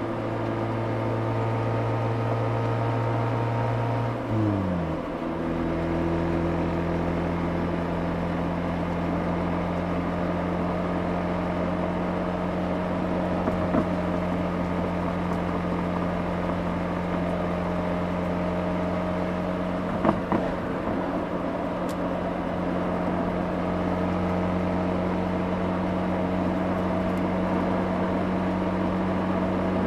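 Mazda RX-8's twin-rotor rotary engine exhaust, heard from the rear bumper, running at a steady pitch. About four seconds in the pitch falls quickly, then settles into a steady drone at a new constant pitch as the car drives on.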